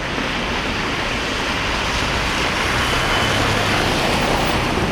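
Road traffic on a wet, slushy street: a steady hiss of car tyres through slush and water, with a low engine hum.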